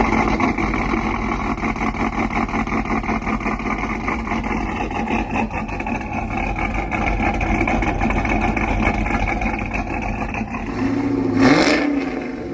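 Cammed GM V8 truck engine running loud through its exhaust with a rapid, choppy pulse, then given a quick rev that rises and falls near the end.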